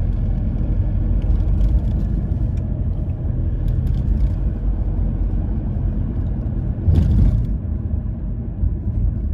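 Car driving on city streets heard from inside the cabin: a steady low rumble of engine and tyre noise, with a brief louder rush of noise about seven seconds in.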